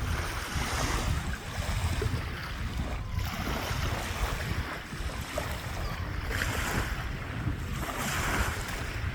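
Lake water splashing in repeated surges, over a low rumble of wind buffeting the microphone.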